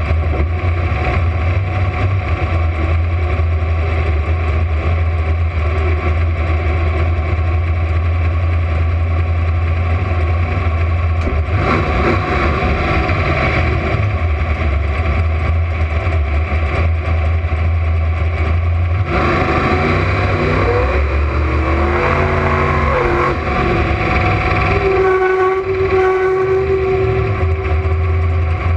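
Camaro drag car's engine idling with a loud, steady low rumble. In the last third its pitch rises and falls in several glides, and a steady higher whine sounds briefly near the end.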